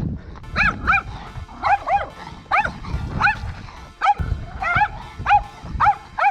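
Dogs barking in a string of about a dozen barks, roughly two a second, some coming in quick pairs, with a few low thuds underneath.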